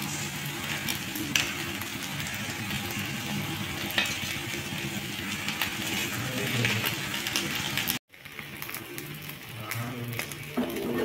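Rice batter sizzling on a hot cast-iron pan, a fine crackling hiss, under background guitar music. The sound cuts out abruptly for a moment about eight seconds in.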